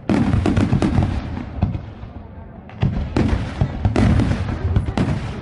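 Fireworks going off in rapid volleys: a dense run of bangs and crackles starts suddenly, eases off about two seconds in, then a second dense run of bangs starts about a second later.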